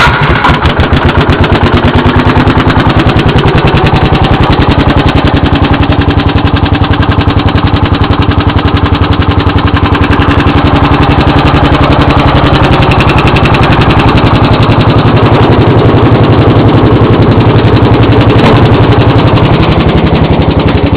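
1969 Gravely 430 garden tractor engine running just after a cold start, with a loud, rapid, even exhaust beat.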